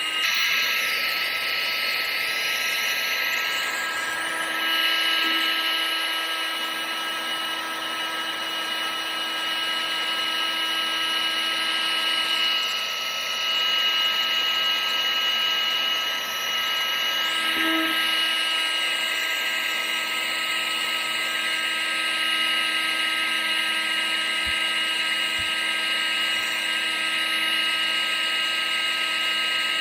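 Vacuum cleaner motor running steadily: a continuous whine with several steady high tones over a rushing hiss.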